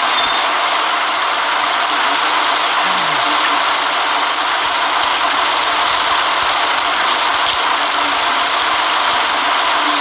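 A city bus running, its engine and road noise blending into a steady hiss with no change.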